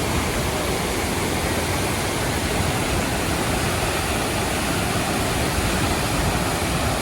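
Waterfall: water pouring down, a loud, steady rush.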